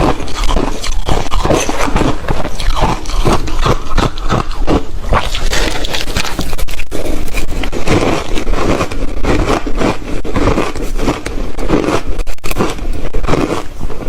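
Ice being bitten and chewed close to the microphone: a loud, dense, irregular run of crunches and crackles.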